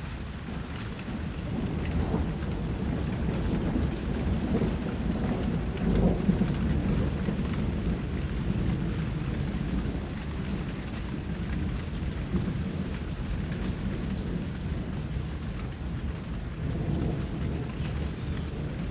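Steady rain with rolling thunder. A low rumble swells a couple of seconds in, is loudest around six seconds, and dies away. A fainter rumble comes near the end.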